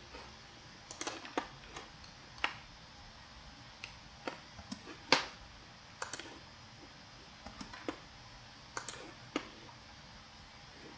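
Computer mouse clicking irregularly, about fifteen sharp clicks scattered unevenly, some in quick pairs, with the loudest about five seconds in, over a faint room hiss.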